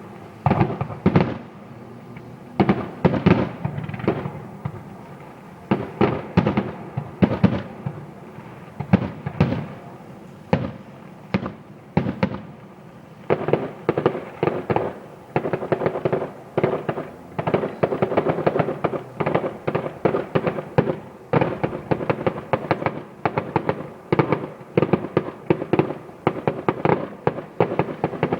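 Fireworks display: aerial shells bursting with sharp bangs, spaced out at first, then from about 13 seconds in a dense, rapid barrage of bangs and crackle.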